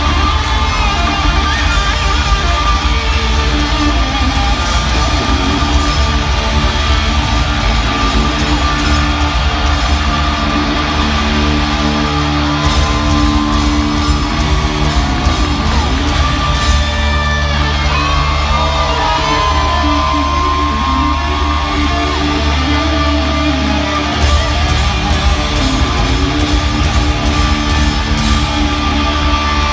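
Loud hard rock music with distorted electric guitars; a bit past halfway, a lead guitar plays bending, sliding notes.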